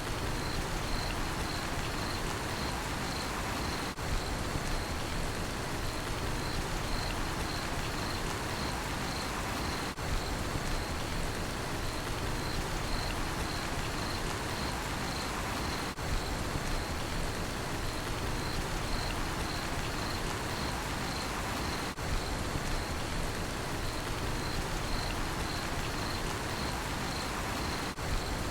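Steady rainfall with crickets chirping in a regular, evenly pulsed high trill. The level dips briefly about every six seconds.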